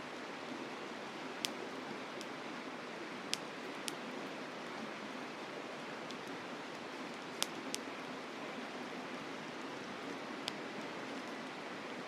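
Campfire crackling, with a handful of sharp pops scattered through, over the steady rush of a mountain river.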